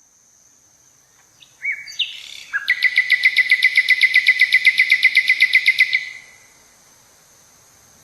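A songbird singing: a few short separate notes, then a fast, even trill of about ten notes a second that lasts about three seconds and stops about six seconds in.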